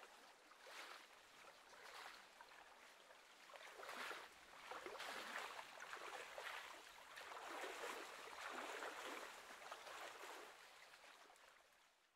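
Faint small waves lapping at a lake shore, in irregular washes about a second apart, fading out near the end.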